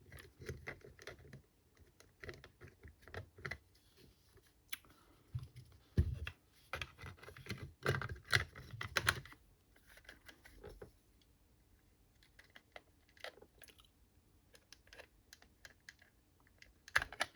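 Hard plastic parts of a cordless screwdriver's casing clicking and rattling as they are handled and pressed together, in irregular runs of small clicks. The clicking is busiest about six to nine seconds in, thins out after, and there is a sharp click near the end.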